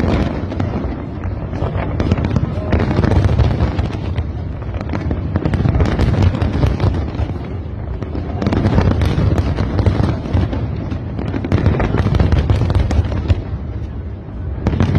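Large fireworks display: a dense, continuous barrage of bangs and crackles with heavy low booms, rising and falling in waves every few seconds.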